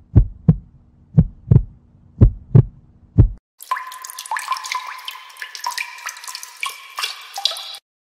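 Heartbeat sound effect: low lub-dub double thumps about once a second, stopping about three and a half seconds in. Then a water-dripping effect follows: quick plinking drips, many in a row, for about four seconds.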